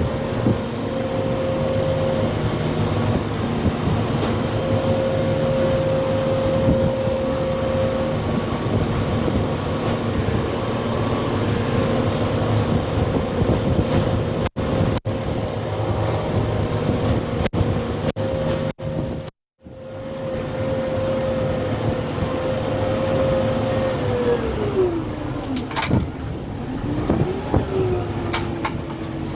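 Kubota M6-141 tractor's diesel engine running steadily under load while working a root grapple. Near the end its pitch sags as it lugs down, then picks back up a little. The sound cuts out briefly several times about halfway.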